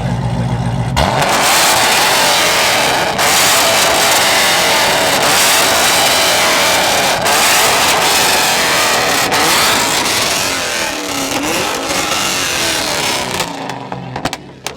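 Car engine idling low, then suddenly run hard at high revs about a second in and held there loudly for around twelve seconds before dropping off near the end.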